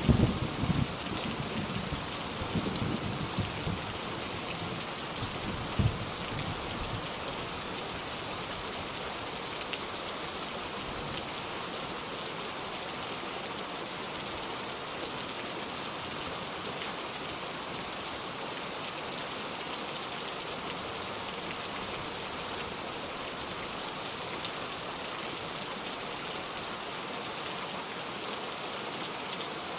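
Steady rain falling, an even hiss of many drops. A low rumble dies away over the first few seconds, and there is a single low thump about six seconds in.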